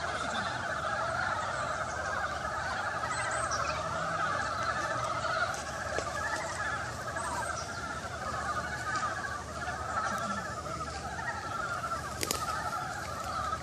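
Chorus of many frogs calling at once, their overlapping trills forming a dense, unbroken wall of sound. A single sharp click sounds about twelve seconds in.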